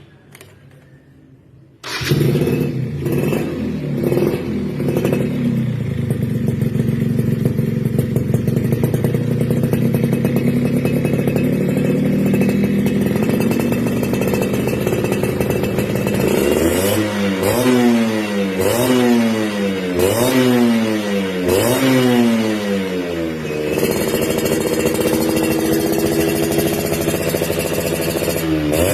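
Two-stroke motorcycle engine with an aftermarket racing exhaust, coming in abruptly about two seconds in and running steadily, then revved in about five quick blips that rise and fall before settling back to a steady run.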